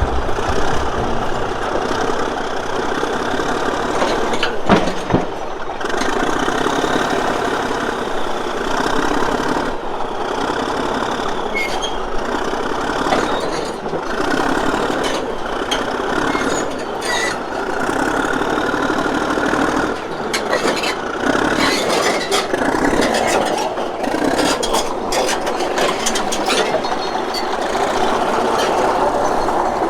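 Heavy diesel engine running steadily, with scattered sharp knocks and clanks.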